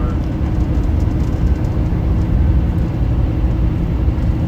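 Scania K310UB bus's diesel engine and road noise heard on board: a steady, loud low drone.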